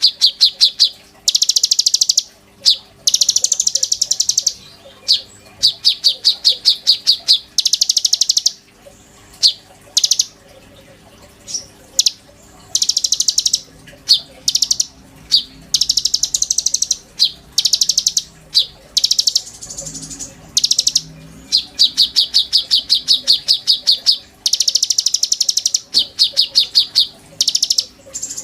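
A konin bird singing in full voice: repeated bouts of rapid, high, sharp chattering notes, each bout lasting about a second, with short pauses between them.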